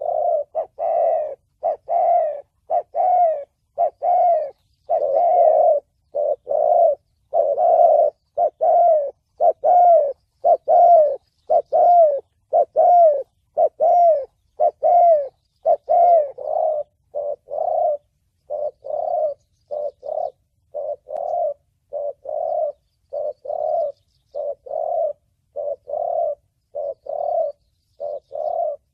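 Spotted dove cooing in a rapid series of short coos, about one and a half to two a second, slightly louder in the first half. It is the 'thổ bầu' voice type, played as a lure call to draw in doves for trapping.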